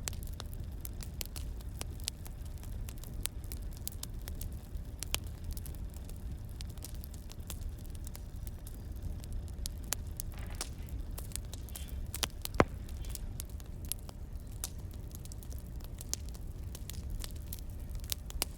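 Wood fire crackling: irregular small pops and snaps over a steady low rumble, with one sharp louder pop about twelve and a half seconds in.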